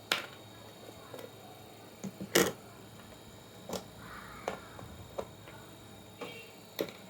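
Irregular sharp clicks and light knocks of small hard parts or tools being handled, about nine in all, the loudest about two and a half seconds in.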